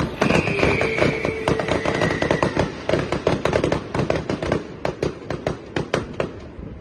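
Aerial fireworks crackling in a dense rapid patter of sharp cracks that thins out and fades away near the end, with a high whistle falling slightly in pitch over the first couple of seconds.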